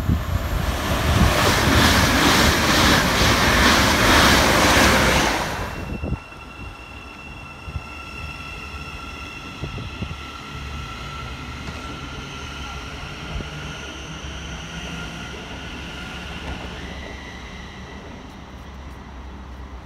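A train passes through the station at speed, a loud rush of wheels on rail with a regular beat, stopping abruptly about six seconds in. After it, a Thameslink electric multiple unit gives a steady electric whine of several tones, the pitch stepping up near the end.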